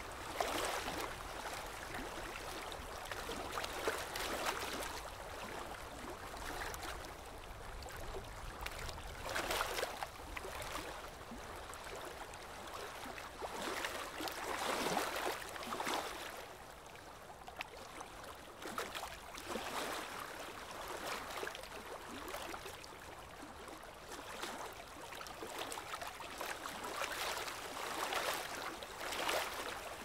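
Small ocean waves breaking and washing up the beach, a rush of surf that swells and fades every few seconds.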